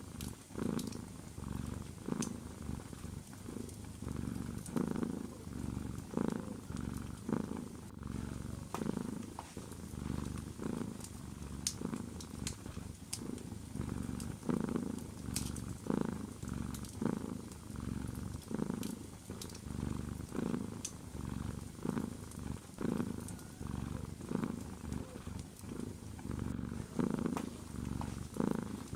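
Domestic cat purring steadily and close up, the rumble swelling and easing about once a second with its breathing. Faint scattered crackles of a fireplace fire sound over it.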